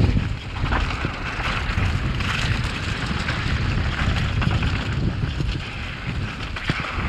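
Mountain bike running fast down a rocky trail: heavy wind buffeting on the microphone over a steady rumble and hiss of tyres on rock and dirt, with several sharp knocks from impacts, including a couple near the end.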